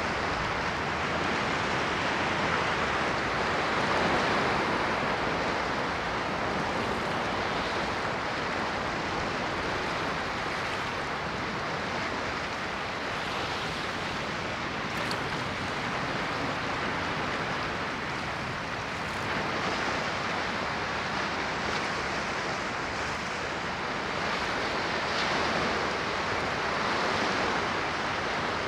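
Ocean waves washing onto a shore in a continuous rush that swells and ebbs every several seconds.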